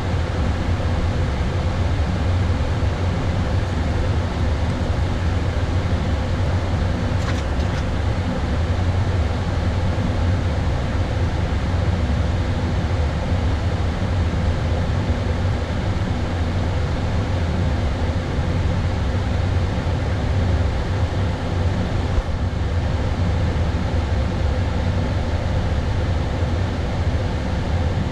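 Steady cockpit noise on an Airbus A320 flight deck in descent: a constant deep hum with airflow hiss over it, unchanging throughout.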